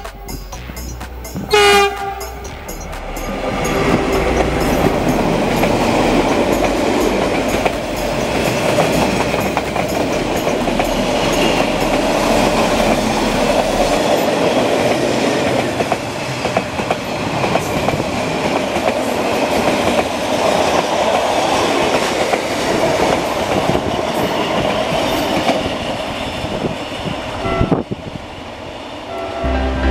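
Train horn blowing briefly about two seconds in, then a train running steadily along the track with rolling wheel clatter that drops away near the end.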